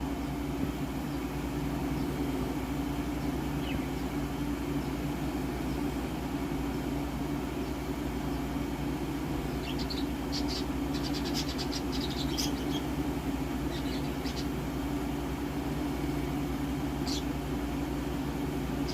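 Budgerigars chirping in short, high calls, a flurry of them around the middle and a few more near the end, over a steady low hum.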